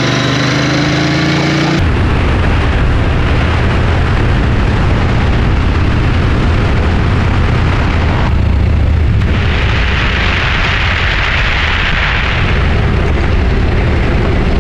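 A motorcycle engine running steadily, then, after a sudden change about two seconds in, a motorcycle at riding speed with heavy wind buffeting on the microphone over engine and road noise. A louder hiss swells for a few seconds past the middle.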